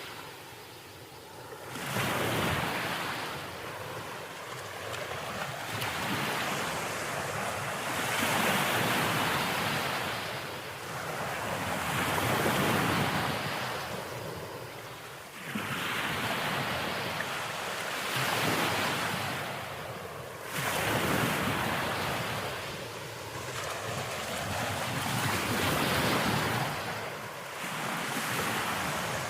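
Ocean waves breaking and washing back, the hiss of the surf swelling and fading every few seconds.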